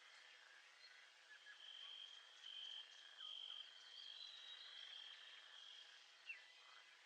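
Faint recorded nature ambience: a high, steady trill that swells in pulses, with a few short falling chirps, the sharpest about six seconds in.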